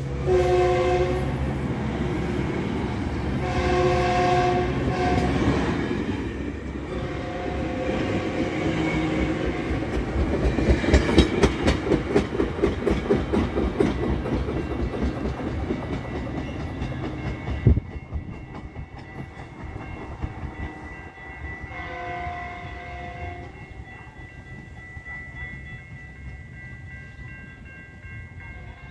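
Metrolink commuter train moving off along the platform. Its air horn sounds in several blasts: a short one at the start, a longer one a few seconds in, and a fainter one later. Between them the wheels clack rhythmically over the rail joints, loudest around the middle, with one sharp knock, then fading as the train pulls away.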